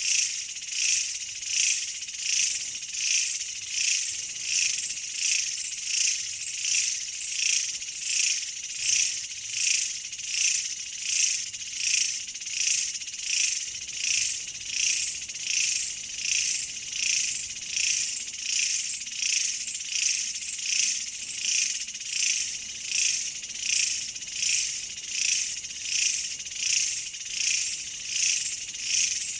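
Insect chorus, a high-pitched shrill sound that swells and fades in an even rhythm of about three pulses every two seconds.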